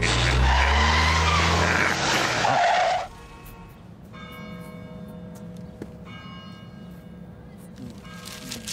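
A loud rush of tyre skidding over a low engine note for about three seconds that cuts off suddenly, then quieter, lingering ringing of church bells.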